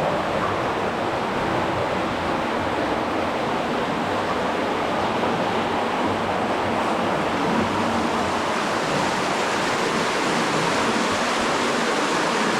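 Steady rush of a cave spring stream flowing fast, high after heavy rain.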